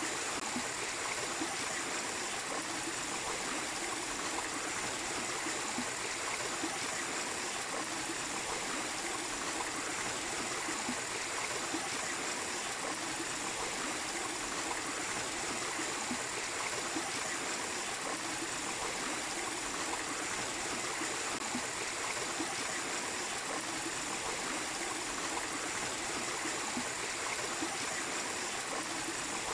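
A small waterfall and stream of water running over rocks: a steady rushing and trickling.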